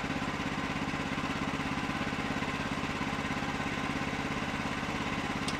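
An engine idling steadily with an even, rapid pulsing beat.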